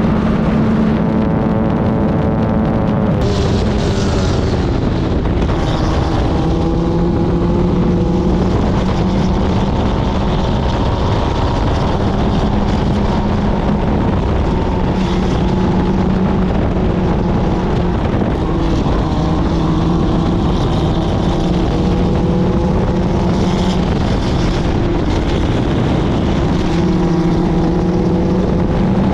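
Club Ford (Formula Ford) race car engine at racing speed. Its pitch climbs and drops again and again, as it goes up through the gears and comes back down for corners.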